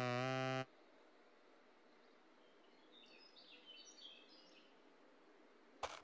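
A toucan-like garden bird gives one short, steady, low-pitched call in the first second, followed a few seconds later by faint twittering chirps.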